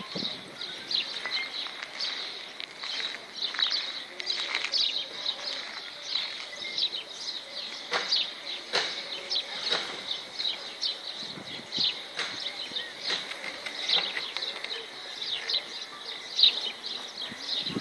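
Small birds chirping over and over in short, high, falling notes, a few each second, with a few sharp clicks around the middle.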